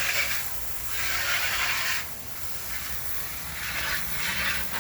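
Repeated hissing bursts, each about a second long, from a car tire being washed.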